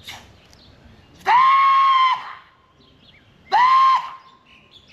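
Two loud, high, steady-pitched ceremonial calls in a Māori welcome ceremony, a long one about a second in and a shorter one near three and a half seconds.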